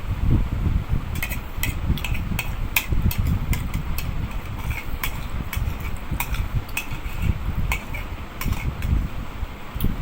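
Spoons clinking and scraping against plates in quick, irregular taps as several people eat sweet yogurt in a hurry, over a steady low rumble.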